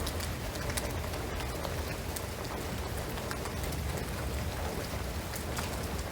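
Steady rain falling on a shingled roof and pine trees, a continuous patter with scattered sharper drops.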